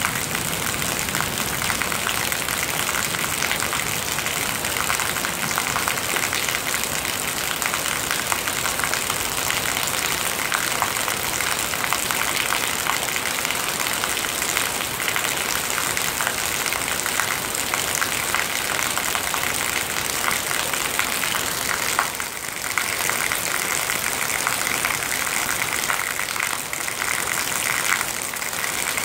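Heavy rain pouring onto a flooded concrete sidewalk and lawn: a steady hiss of drops splashing into standing water.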